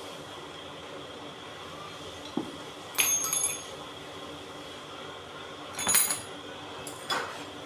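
Metal parts clinking against each other twice, about three seconds apart, each with a short bright ring, during the dismantling of an electric water pump. A steady low hum runs underneath.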